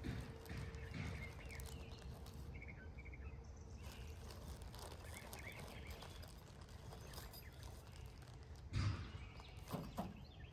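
Faint small-bird chirps over a low steady background rumble, with two sharp knocks near the end.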